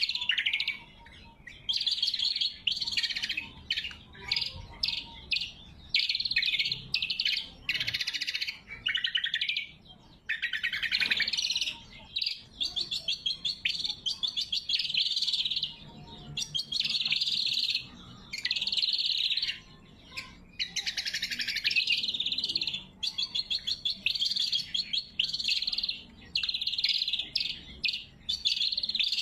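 A greater green leafbird (cucak kombo) singing actively: loud, sharp phrases of chirps and fast rattling trills, one after another with short pauses between them.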